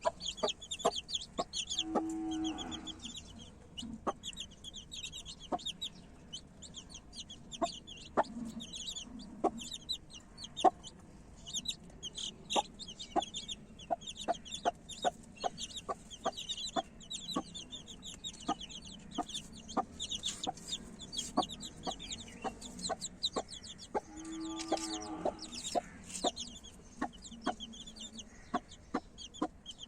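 Chicks peeping rapidly and without pause, with a hen giving a low drawn-out cluck twice, about two seconds in and again near the end. Many sharp taps sound among the peeps.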